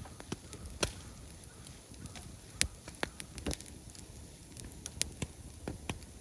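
Wood campfire crackling: irregular sharp pops and snaps over a low, steady background, the loudest snap about two and a half seconds in.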